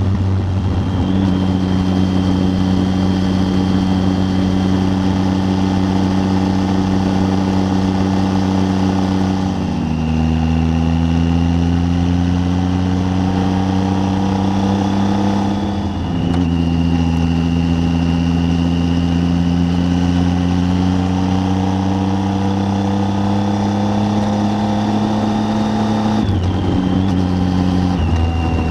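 Triumph Tiger 800's three-cylinder engine running under way. The pitch drops at several gear changes and climbs slowly after each as the bike accelerates, with a steady rush of riding noise beneath.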